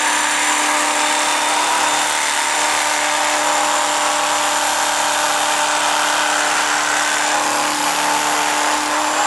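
Handheld electric power tool running steadily at one speed while cutting seat foam.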